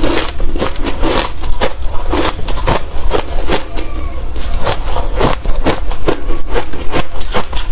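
Hard refrozen crushed ice being chewed close to the microphone: a dense run of loud, sharp crunches, several a second.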